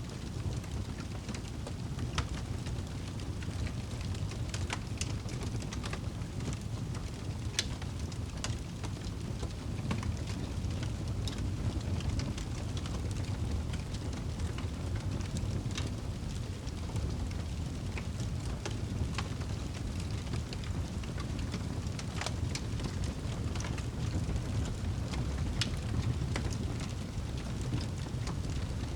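Wood fire burning in a fireplace: a steady low rumble of flames with frequent sharp crackles and pops from the burning logs, scattered at irregular intervals.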